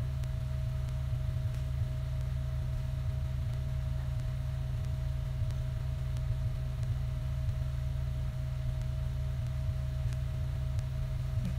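A steady low hum with a faint steady higher tone above it, unchanging throughout, with a few faint ticks.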